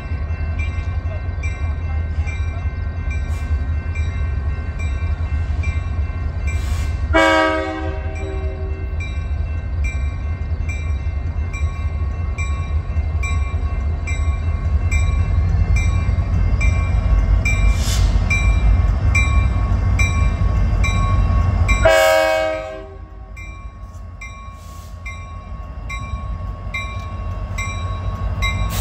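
Diesel locomotive approaching with a steady low rumble, sounding its multi-tone air horn twice: a blast of about two seconds some seven seconds in and a shorter one about twenty-two seconds in, after which the rumble drops. A faint regular tick about twice a second runs underneath.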